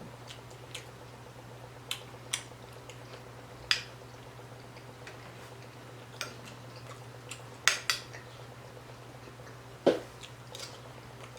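Someone eating barbecue ribs: a scattered handful of sharp clicks and clinks, over a steady low hum.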